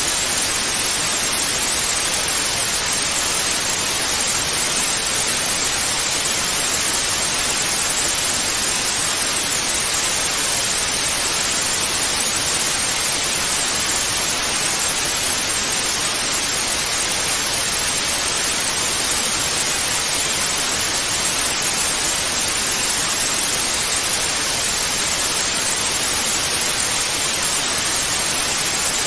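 Steady television static hiss (white noise): an even rushing noise, heavier in the high end, holding at a constant level.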